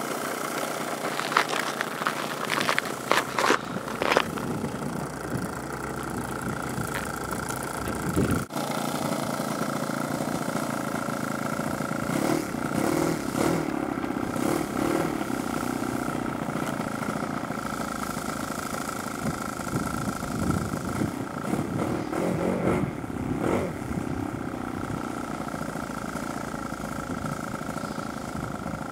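An engine running steadily, which the owner calls in top form. A few sharp clicks come in the first few seconds, and after about eight seconds the sound fills out with more low rumble.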